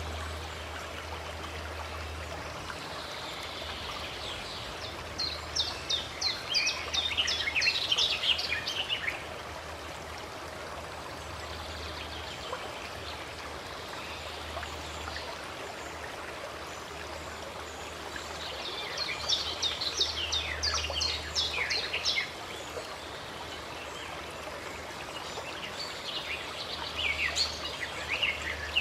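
Running water flowing steadily, with a songbird singing three bouts of rapid, high chirps that fall in pitch: about five seconds in, around twenty seconds, and near the end.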